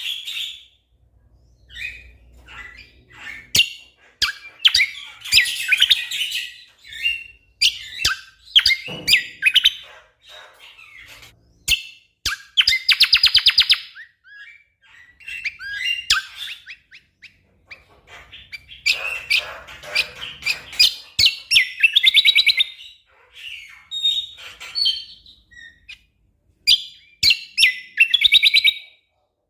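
A cucak kombo songbird singing in bursts of sharp chirps and fast trills, with rapid-fire runs of repeated notes (the "tembakan" of a gacor bird), broken by short pauses.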